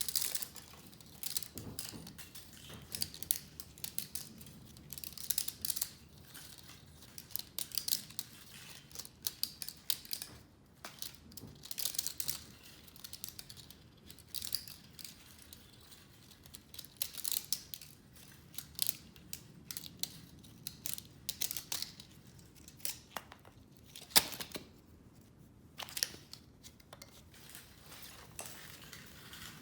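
Hand work on vacuum-cleaner scrap: irregular clusters of snips, clicks and crinkling as parts and wire are cut and pulled apart, with one sharper snap near the end.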